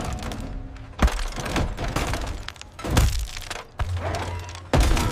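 Crash and breaking sound effects, three heavy smashing impacts about two seconds apart, over background music.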